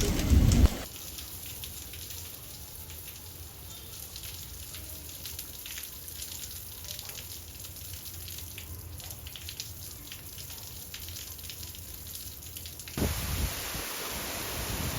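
Steady rain with scattered drops dripping. A louder sound cuts off under a second in, and a louder rushing noise starts about 13 seconds in.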